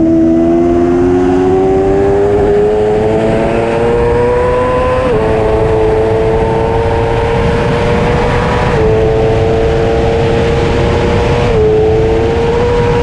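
Superbike engine at high revs, its pitch climbing for the first five seconds and then dropping briefly three times (about five, nine and twelve seconds in) as the rider shifts up, over a steady rush of wind.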